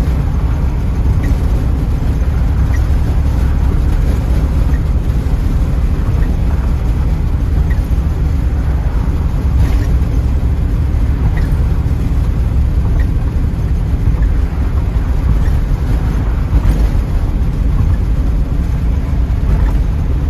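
Steady low wind buffeting and road noise inside a 1984 Pontiac Trans Am driving at speed with its T-tops off.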